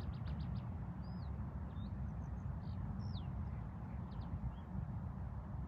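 Small birds chirping and whistling: a quick run of about five short notes at the start, then single slurred whistles, some falling and some rising, roughly once a second. A steady low rumble runs underneath and is the loudest part of the sound.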